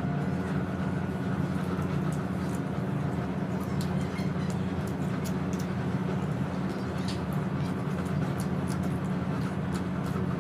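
Steady low hum of background machinery, such as a fan, with scattered faint clicks and smacks of someone eating.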